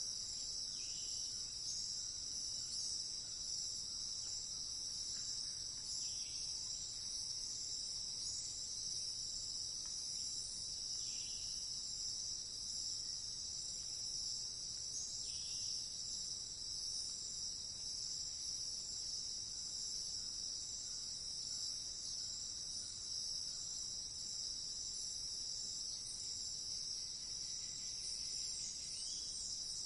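Steady, high-pitched chorus of crickets, running on without a break.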